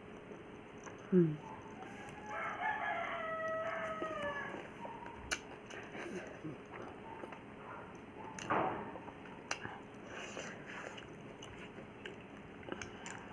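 A rooster crowing once, a pitched call lasting about two seconds. It is preceded by a brief loud sound falling in pitch about a second in, and followed by a few scattered sharp clicks and taps.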